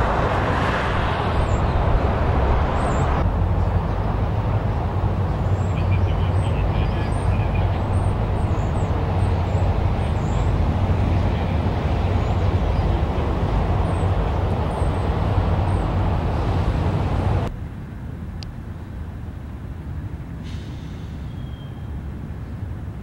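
Ringling Brothers circus train rolling past: a steady low rumble of the cars on the rails, with faint high squeaks over it. About three-quarters through, the sound drops suddenly to a quieter, more distant rumble.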